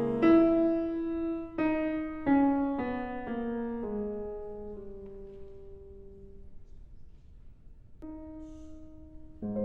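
Background piano music: single notes in a falling line that die away slowly, a near pause, then a fresh chord near the end.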